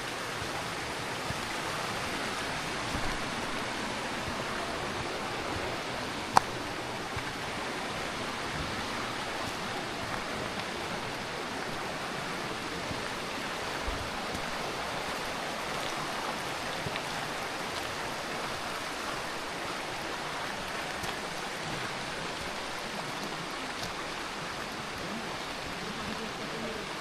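Steady rush of flowing river water from the Curueño, with one sharp click about six seconds in.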